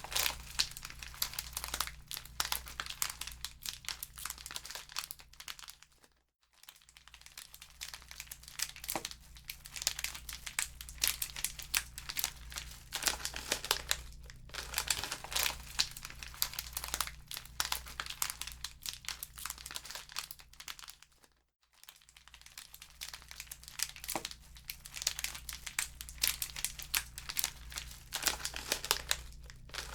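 Wood fire crackling in a fireplace: a dense, continuous run of sharp pops and snaps over a steady low hum. The sound drops out briefly twice, about six and twenty-two seconds in.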